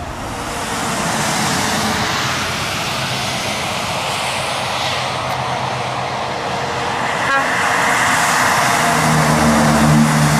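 Heavy truck driving past: rising tyre and road hiss, with a steady low engine note growing louder near the end.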